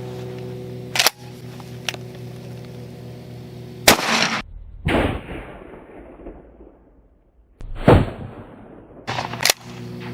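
12-gauge shotgun firing 00 buckshot: two loud blasts about four seconds apart, each trailing off in a long echo. A steady hum stops about a second in.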